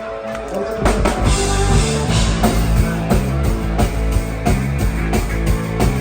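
Live rock band playing: a quieter guitar opening, then drums and bass come in together about a second in and carry on with a steady beat.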